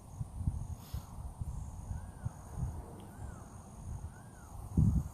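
A bird calling repeatedly, a short rising-and-falling note about once a second, over a faint steady insect buzz. Wind buffets the microphone in low rumbling gusts, strongest near the end.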